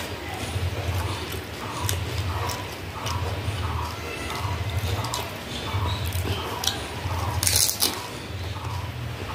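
Close-up eating sounds of fuchka (pani puri): steady chewing about once every second, with small wet clicks and drips as a puri is dipped into spiced water. A loud, crisp crunch comes near the end as a filled puri is bitten.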